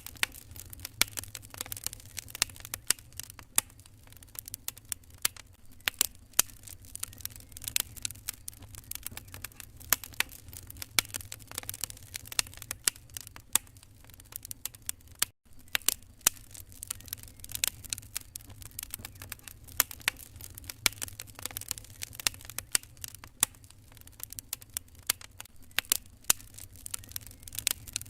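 Wood fire crackling in a fireplace: irregular sharp pops and snaps over a low rumble. The sound cuts out for an instant about halfway through.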